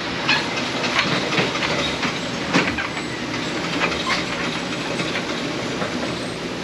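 Motorized target carrier running steadily along its overhead track as it brings the paper target back up the lane, with irregular clicks and rattles over the hum.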